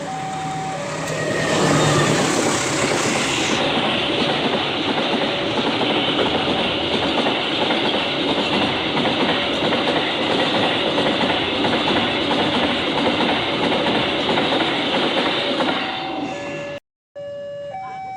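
A train passing close by, a loud steady rush of wheels and cars on the rails for about fifteen seconds. A level-crossing warning alarm's two alternating tones sound at the start, and again after a brief cut near the end.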